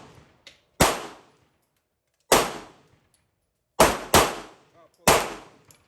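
Pistol shots at a shooting range: five shots with uneven spacing, two of them in quick succession just after the middle, each with a short ringing tail.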